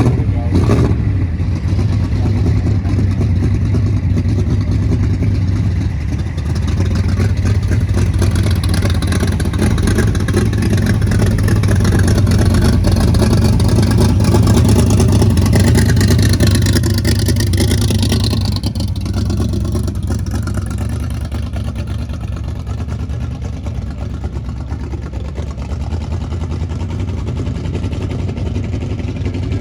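Car engine running steadily with a low rumble, growing louder toward the middle and easing off about eighteen seconds in, as a car moves past at low speed.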